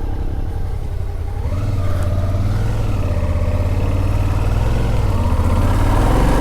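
Motorcycle engine running on the move, its revs rising and falling with the throttle and getting louder toward the end.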